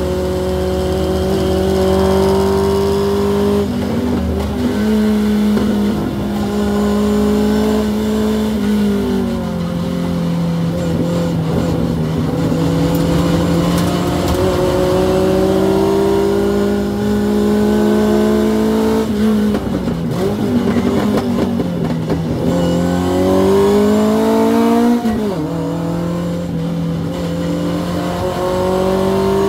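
Hillman Avenger race car's four-cylinder engine heard from inside the cabin at racing speed, repeatedly climbing in pitch as it pulls and dropping back sharply at gear changes and lifts for corners, about four times.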